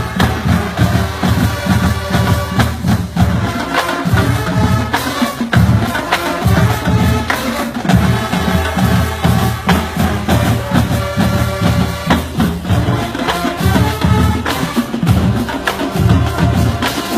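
High school marching band playing a brass funk tune live, with horns over a heavy, moving bass line and steady drum hits.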